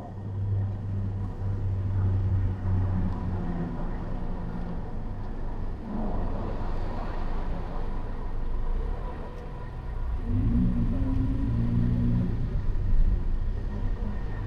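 Car driving in city traffic: steady low engine and road rumble, with a low hum that stands out for the first few seconds and again about ten seconds in.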